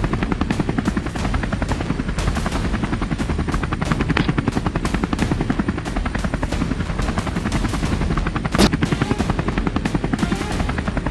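Helicopter rotor blades chopping in a rapid, even beat, with a single loud rifle shot about eight and a half seconds in.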